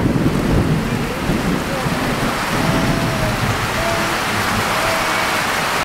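Thunderstorm: heavy rain falling steadily, with a low rumble of thunder over the first two seconds.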